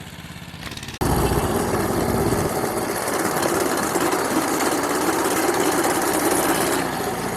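A vehicle engine chugging quietly at low revs, then about a second in a sudden jump to a loud engine running hard with a rushing noise.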